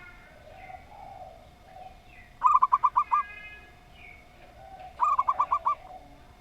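Zebra dove (perkutut) giving two quick staccato cooing phrases of about six notes each, about two and a half and five seconds in. Between them are softer, lower, drawn-out coos, which fit the spotted doves (tekukur) of the title.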